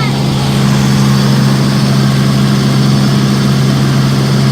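Helicopter in flight, heard from inside the cabin: a loud, steady engine and rotor drone with a constant low hum over an even rush of noise.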